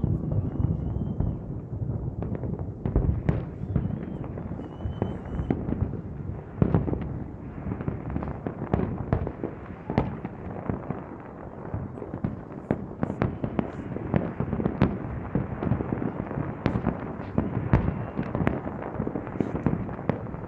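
Fireworks bursting in rapid, irregular succession, with many sharp bangs and crackles over a continuous low rumble. A few high whistles come in the first few seconds.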